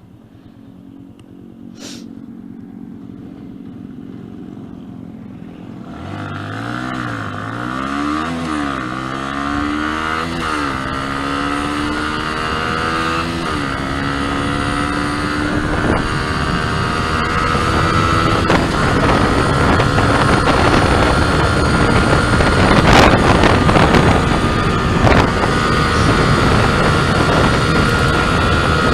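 Stock Yamaha New Vixion Lightning's 150 cc single-cylinder engine, quiet at first, then accelerating hard from about six seconds in. Its pitch climbs and drops back at each of several upshifts, then holds high and steady at top speed, with wind noise growing.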